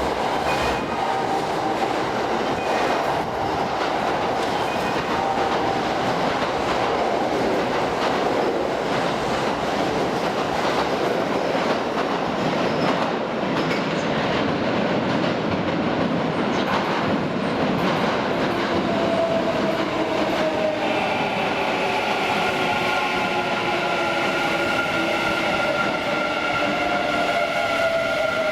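Kintetsu electric train running through a station, a steady rumble of wheels on rail with clacking over the rail joints. About two-thirds of the way in, a whine joins, with several tones, some slowly falling in pitch.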